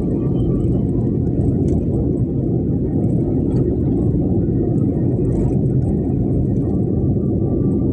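Heavy rain and strong wind in a storm: a steady, loud low roar with constant buffeting.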